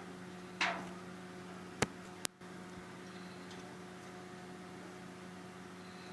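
Steady low electrical hum, with a short rustle about half a second in and two sharp clicks around two seconds in.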